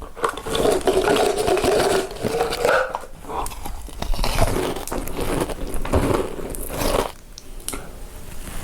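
Close-miked crunchy biting and chewing of food, a dense run of irregular crunches.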